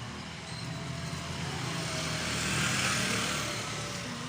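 Motorcycle engine running, with a rush of road and wind noise that swells to its loudest about three seconds in, then eases.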